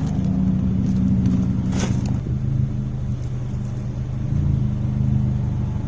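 Steady running hum of an engine or motor at constant speed, holding one low pitch, with a light click about two seconds in.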